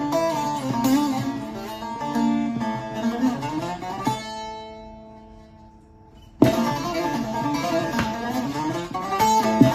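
Long-necked bağlama (saz) with a 41-stave kelebek-wood bowl, mahogany neck and spruce top, picked with a plectrum in a melody. About four seconds in, the picking stops and a note rings out and slowly fades, then the playing starts again sharply a couple of seconds later.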